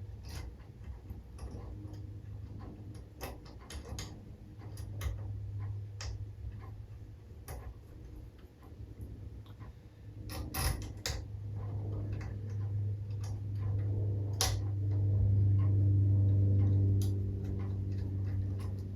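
Scattered light clicks and taps of small metal engine parts and tools being handled during bench assembly, with a steady low hum underneath that grows louder in the second half.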